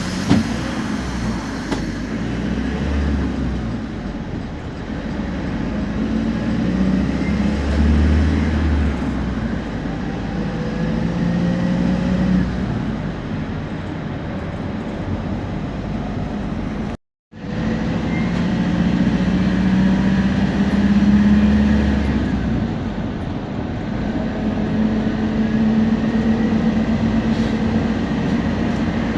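Temsa Prestij SX midibus driving, its diesel engine pulling under load with a low drone. Thin whines from the turbo and differential rise slowly in pitch as it gathers speed. The sound cuts out briefly about 17 seconds in, then the run carries on the same way.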